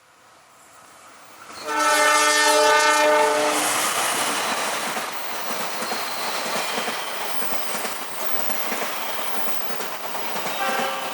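A train passing close by: the locomotive's horn sounds one long blast about two seconds in, followed by the steady rumble and clatter of wheels on the rails as the train goes by, with a short second horn blast near the end.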